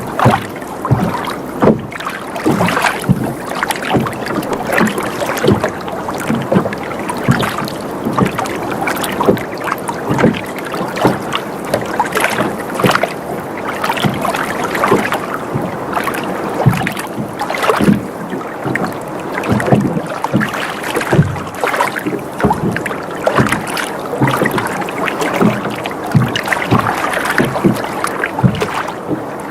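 Water sloshing and lapping against a sailboat's hull, with many small irregular slaps and splashes.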